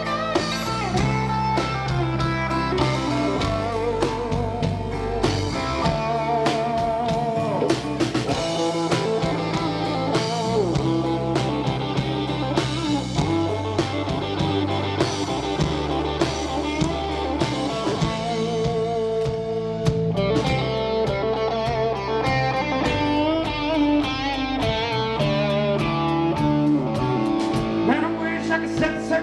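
Live band playing an instrumental break: a lead guitar solo with bent and wavering notes over bass guitar and drums.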